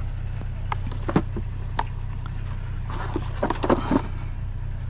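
Clicks, knocks and rattles of a discarded pressure washer being handled, with a cluster of knocks about three to four seconds in, over a steady low engine hum.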